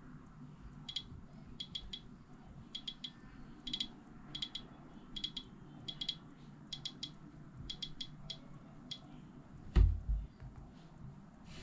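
Many small, sharp clicks in quick twos and threes, followed by one heavy thump near the end.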